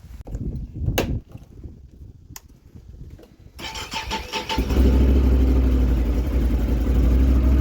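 A few sharp clicks and knocks, then an ATV (quad) engine starts a little past halfway through and settles into a steady idle.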